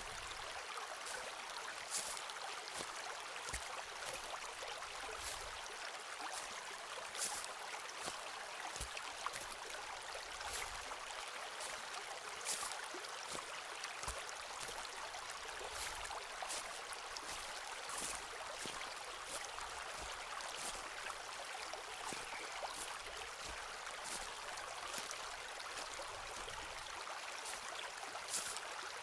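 Footsteps crunching on a forest path, one short step sound about every second, over the steady rush of a stream.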